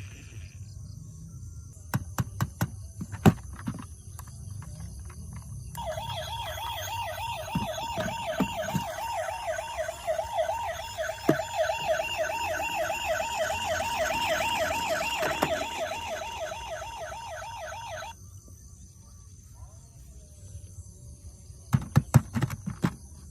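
Electronic siren of a toy emergency vehicle, warbling rapidly up and down for about twelve seconds, starting several seconds in and cutting off suddenly. A few sharp clicks come before it and again near the end.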